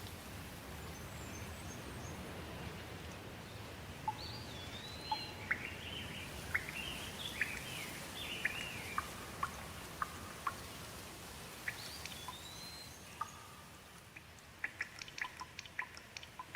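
Steady rain with birds calling over it: whistled, gliding calls and short chirps through the middle. Near the end the rain thins and single drops plink.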